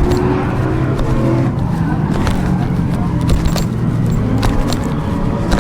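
A car engine running, its pitch rising and falling, with scattered sharp ticks over it.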